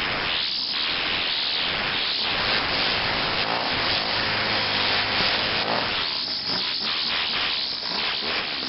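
Homelite HLT 15 two-stroke string trimmer engine running steadily just after a cold start.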